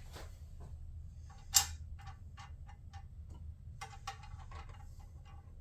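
Plastic clips and shroud pieces clicking and tapping as they are handled and fitted: one sharp click, then a run of light clicks and taps.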